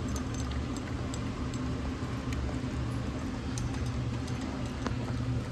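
A dog eating from its bowl: faint, scattered clicks of chewing and licking over a steady low hum.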